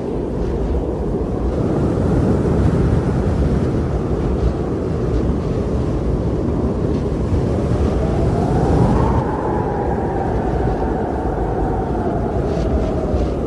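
Strong blizzard wind blowing steadily and deep. A faint whistle rises just past the middle and slowly sinks toward the end.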